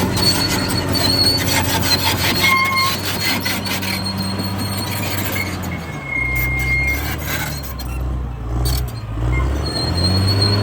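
Caterpillar D6R XL bulldozer at work: the diesel engine runs under load while the steel tracks give short high squeals now and then. The engine note drops lower about halfway through.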